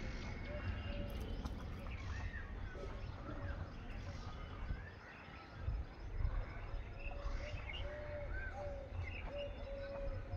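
Several birds calling: scattered high chirps and a run of short, repeated low notes at one pitch, over a steady low rumble, with a brief low bump about six seconds in.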